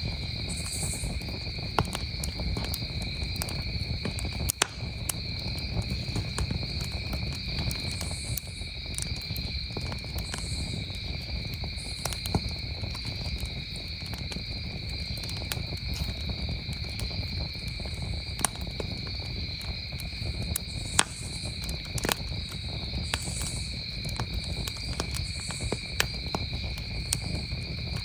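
Campfire crackling with scattered sharp pops, over the steady high trill of crickets. Short higher insect buzzes recur every second or two.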